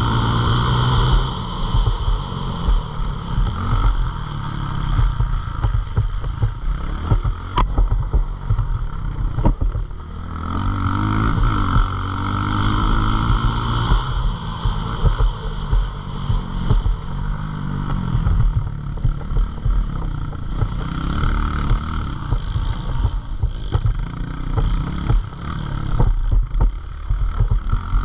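Pit bike's small single-cylinder engine being ridden hard, its pitch rising and falling again and again as the rider opens and closes the throttle and shifts gears, with a single sharp click about eight seconds in.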